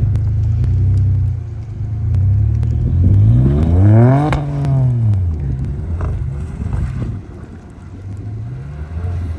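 Ford 3.5 EcoBoost twin-turbo V6 running through an MBRP 4-inch cat-back exhaust. Its note climbs sharply in pitch to a peak about four seconds in and falls back, with a smaller rise near the end.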